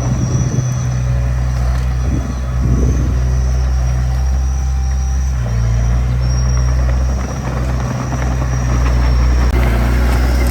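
Small bulldozer's diesel engine running steadily under work, with a thin high-pitched whine over it that stops near the end.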